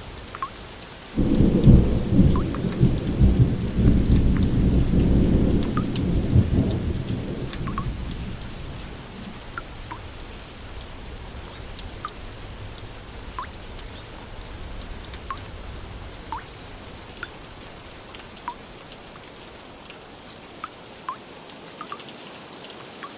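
A thunderclap breaks about a second in and rumbles loudly for several seconds before fading away, over steady rainfall with scattered drops falling.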